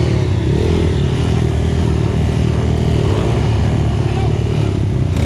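Enduro dirt bike engine running steadily, its pitch rising and falling a little with the throttle.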